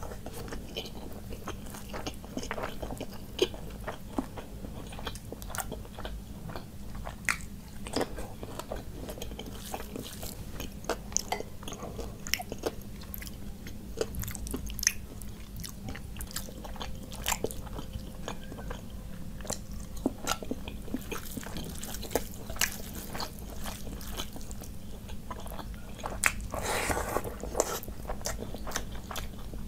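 Close-miked eating sounds from a person eating rice and curry by hand: chewing and biting with frequent sharp wet clicks, and a short louder burst of food handling about three-quarters through, over a steady low hum.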